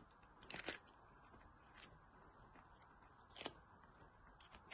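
Near silence, broken only by a few faint, short clicks or rustles.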